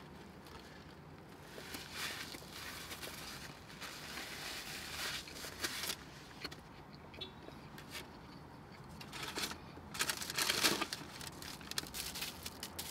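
Soft, close chewing of a sub sandwich, with a plastic wrapper crinkling toward the end as a kosher dill pickle is unwrapped.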